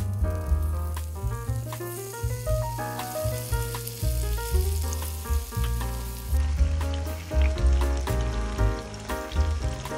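Food frying in hot oil, a fine steady sizzle, under background music with a bass line and a stepping melody that runs throughout.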